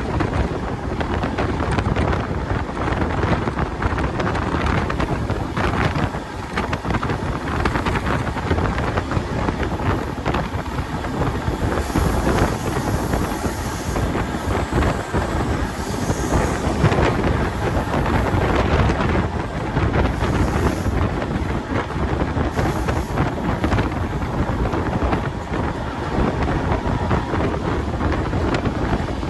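Express train running at speed on the rails, a steady rushing noise with wind buffeting the microphone.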